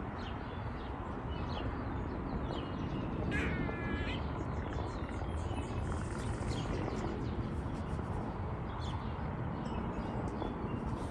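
Birds chirping intermittently over a steady low rumble of background noise, with one louder, more drawn-out call about three and a half seconds in.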